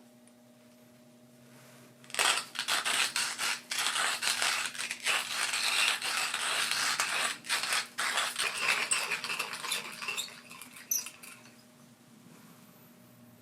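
Hand coffee grinder crushing beans: about eight seconds of dense, irregular crunching and crackling that starts suddenly and thins out near the end.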